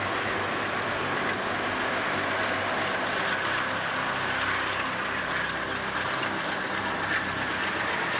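A train running on the rails: steady, even wheel-and-rail noise with an underlying engine sound.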